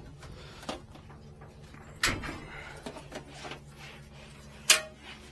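A few sharp knocks and clicks, the loudest about two seconds in and again near the end, over a faint steady hum.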